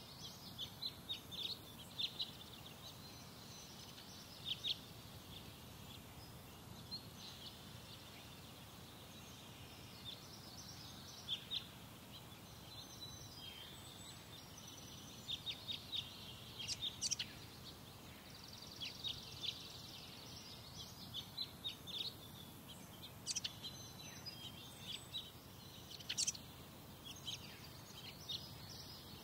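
Birds chirping: short, high calls that come in quick clusters every few seconds, over a low steady background rumble.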